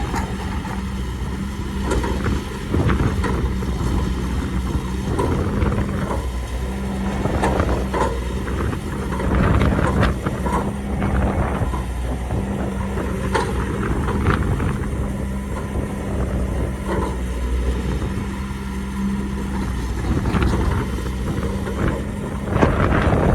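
CAT excavator's diesel engine running steadily under load, with scattered knocks and rattles from the machine working.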